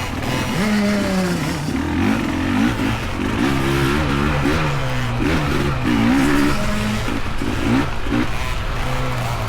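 Dirt bike engines revving up and down over and over as the bikes pick their way over roots on a trail.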